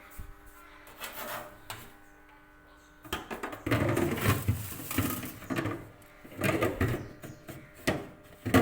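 Hard plastic refrigerator parts clattering and rattling as they are handled and fitted back into place, after a few light clicks; the clatter starts about three seconds in and comes in irregular rapid bursts.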